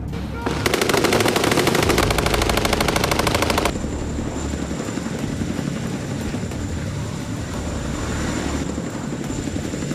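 A machine gun firing one sustained burst of about three seconds, rapid evenly spaced shots, which then gives way to a steady drone with a faint high whine.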